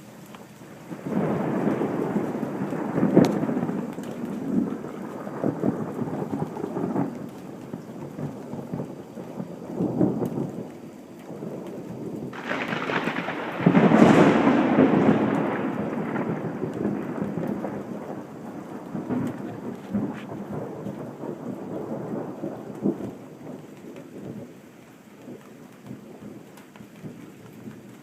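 Thunder: a long rolling rumble starts about a second in, a second, louder crash comes about halfway through, and the rumble then slowly dies away.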